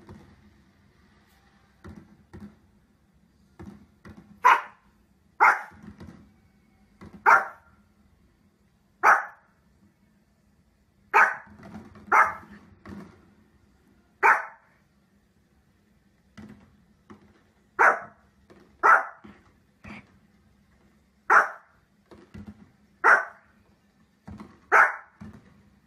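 Small fluffy spitz-type dog barking in single sharp barks, about a dozen loud ones spaced one to two seconds apart with softer barks between. It is barking at fireworks on the television.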